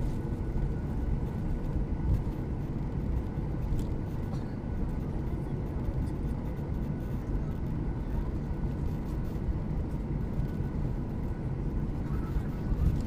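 Steady low rumble inside the passenger cabin of a Boeing 737-800 with its CFM56-7B engines running, with a faint high steady hum on top.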